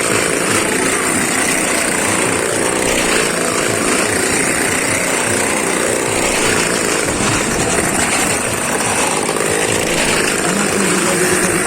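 Motorcycle engine running steadily and continuously, with no pauses or sharp changes in revs.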